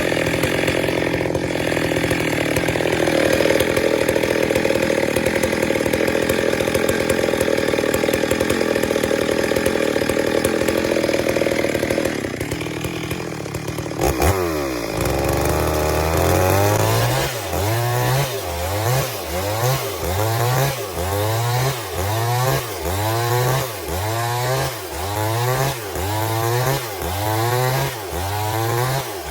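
Stihl MS 382 two-stroke chainsaw running at high revs while ripping a log lengthwise in a chainsaw mill. The sound changes around twelve seconds in, and from about sixteen seconds the engine pitch rises and falls in a regular pulse, a bit more than once a second.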